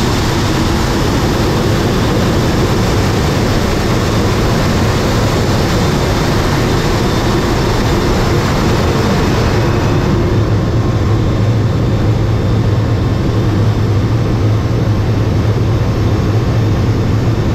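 Loud, steady rush of air and airplane engine noise heard from inside an airplane's landing-gear bay. About ten seconds in, the high hiss dulls and a deep hum becomes the strongest part.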